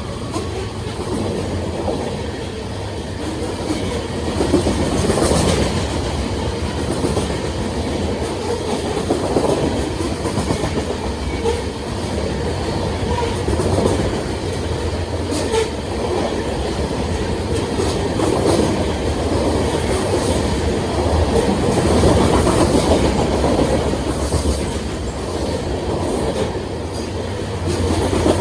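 Union Pacific grain train's cars rolling past, a steady rumble of wheels on rail with irregular clicks and clacks as the wheels cross rail joints.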